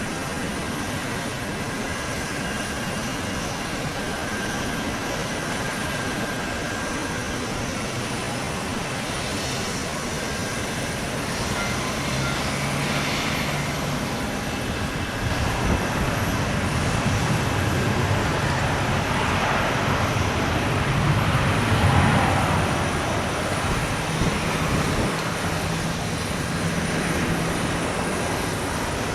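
Airbus A321neo airliner with CFM LEAP-1A jet engines on landing, its engine noise swelling as it passes, loudest about three-quarters of the way through, then easing off.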